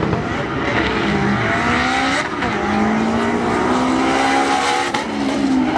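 Honda Civic hatchback drag car's four-cylinder engine accelerating hard down the strip, revving up through the gears with an upshift about two seconds in and another about five seconds in.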